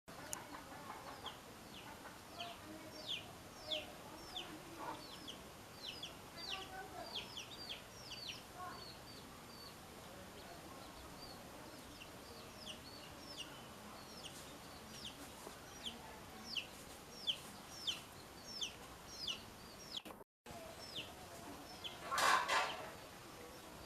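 Birds chirping over and over in short, high, downward-sliding notes, with hens clucking low underneath. A loud harsh call stands out near the end.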